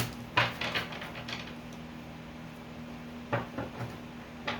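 Tarot cards being handled and drawn from the deck: a run of quick snaps and taps at the start, then another short cluster a little past halfway, with a faint steady hum underneath.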